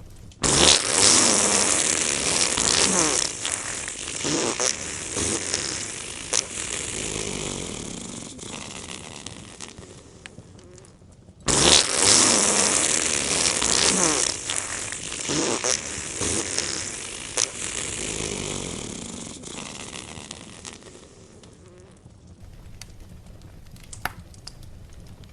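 Fireplace fire hissing and crackling with scattered sharp pops, the same stretch of sound heard twice: each time it starts suddenly and then fades slowly over about ten seconds.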